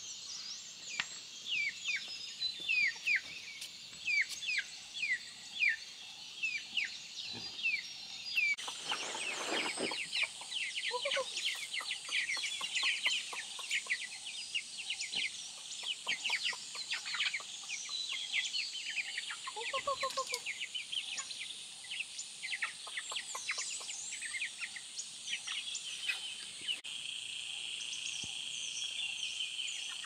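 Birds chirping, many short high falling chirps a few times a second, with a couple of lower clucks and a steady insect drone behind them.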